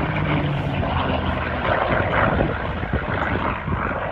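Propeller-driven aircraft engine running at an air show: a steady low engine hum under a wide rushing noise.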